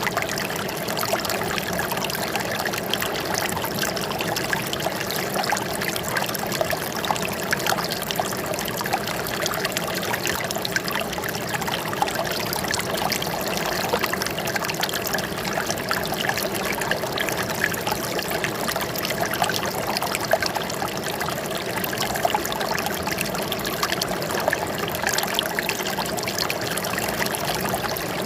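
Running water trickling and splashing steadily, without a pause.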